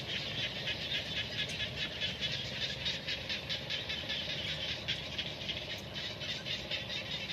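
Small frogs calling in a chorus from a flooded rice paddy: a steady, rapid, high-pitched pulsing, many calls a second.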